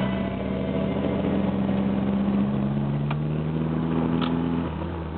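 Mercury Tracer's swapped-in Mazda 1.8-litre turbocharged four-cylinder running as the car is driven. The engine note climbs slightly in pitch, then drops away near the end.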